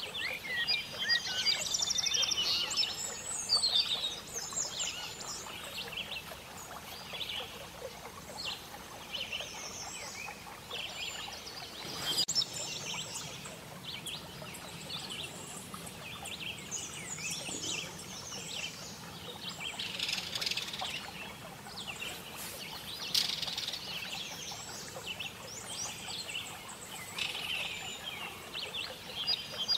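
Several small songbirds chirping and trilling in quick, overlapping phrases over a steady background hiss.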